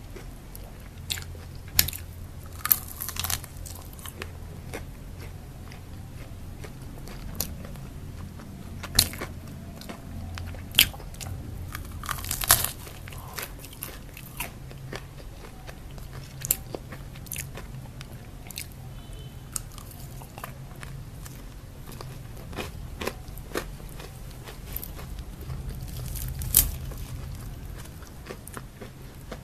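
Close-up biting and chewing of crispy fried chicken, with sharp crunches every few seconds between quieter chewing.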